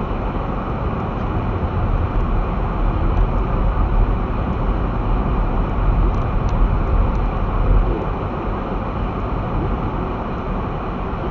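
Steady road and engine noise inside a car's cabin while driving through snow, with strong wind swirling and blowing against the vehicle. The noise swells for a few seconds in the middle.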